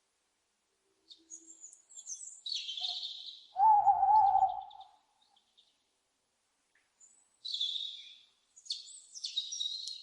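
Owl calls: short high-pitched calls, twice, with one louder, lower wavering call about four seconds in.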